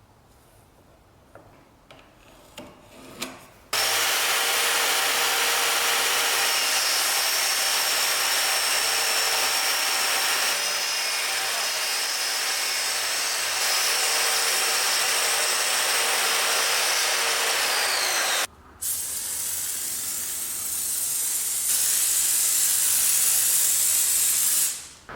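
A few quiet handling clicks, then a power tool running steadily on wood. It winds down about two-thirds of the way in, and after a brief break a second run starts and goes on until near the end.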